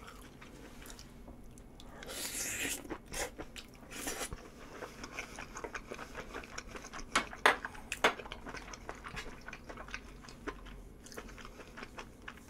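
A person biting and chewing a mouthful of food close to a microphone. There is a noisy stretch about two seconds in, then a run of short, sharp clicks and smacks of chewing.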